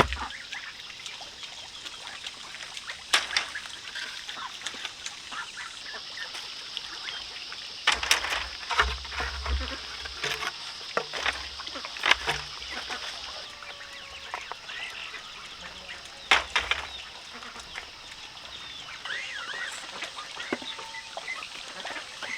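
Chickens clucking and chicks peeping, over a steady high buzz, with scattered sharp knocks and a few heavier thuds in the middle.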